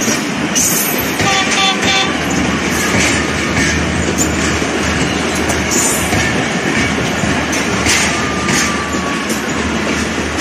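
Pakistan Railways passenger coaches rolling past close by, a steady rush of wheels and running gear with sharp clacks every second or two as the wheels cross rail joints.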